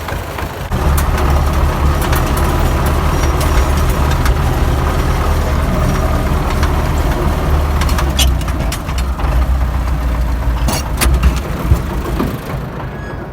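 Tractor engine running steadily close by, getting louder about a second in, with a few sharp clicks and knocks over it.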